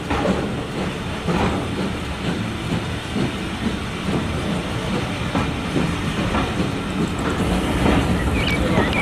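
Steam-hauled heritage train carriages pulling out of a station at low speed, heard through an open window: a steady rumble of wheels and running gear with irregular clatter and knocks over the rails, growing a little louder as the train gathers speed.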